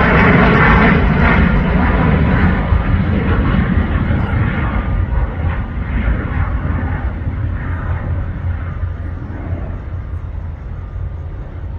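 Jet airliner's engines rumbling loudly as the aircraft passes, the roar fading steadily as it moves away.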